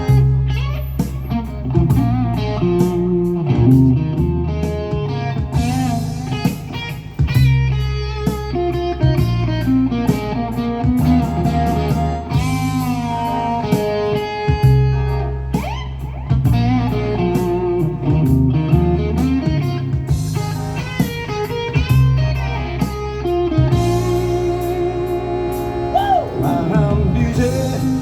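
Live band playing an instrumental break led by electric guitar, with bending notes over bass and drums.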